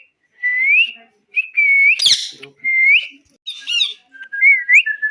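A parrot whistling: a series of short clear whistles, most of them rising in pitch, broken by two harsher calls, and ending on a steady held whistle.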